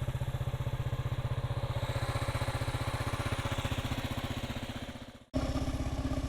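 Kawasaki KLR650's single-cylinder engine idling with an even, rapid thump. It fades out about five seconds in and cuts straight back to the engine running.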